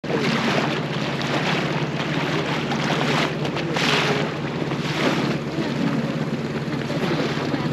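Dinghy outboard motor running at a steady speed, a constant hum under wind on the microphone and rushing water that swells briefly twice near the middle.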